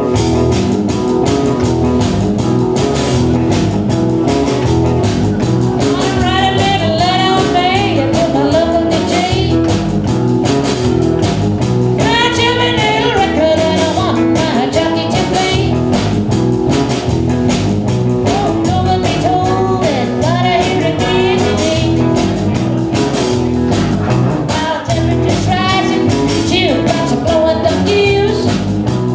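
Live band playing a blues-rock number with a steady beat and guitar, and a voice singing over it from about six seconds in.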